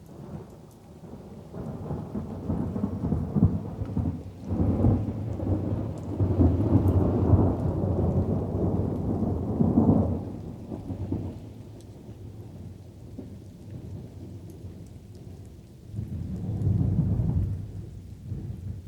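Thunder rolling over light rain: a long low rumble builds, stays loud for several seconds and dies away about halfway through, leaving the soft patter of rain, then a shorter second rumble near the end.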